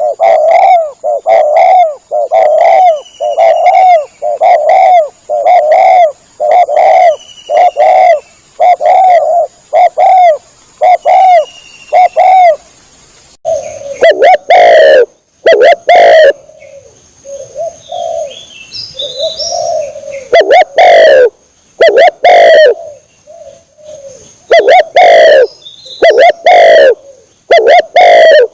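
Spotted dove (tekukur) calls played as a hunting lure: a fast, even run of repeated coos, about two a second. About 13 seconds in the recording changes, and louder coos come in bunches with short gaps, with a few faint chirps of small birds between them.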